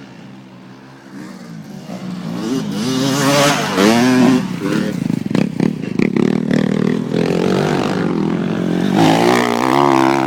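Motocross motorcycle engine revving hard, its pitch climbing steeply about three seconds in, then running loud with the revs rising and falling, and climbing again near the end.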